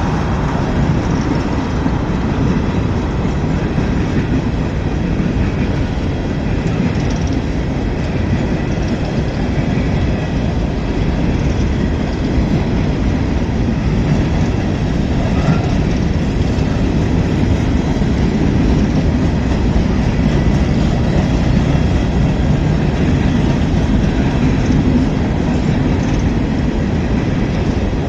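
The cars of a long train rolling past: a steady, unbroken rumble of wheels on rail.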